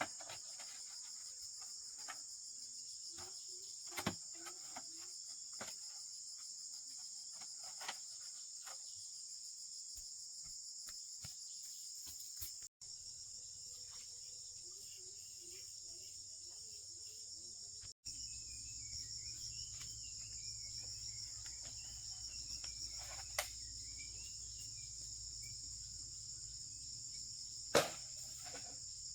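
Steady high-pitched chorus of crickets and other insects, with occasional sharp knocks, the loudest about four seconds in and twice near the end.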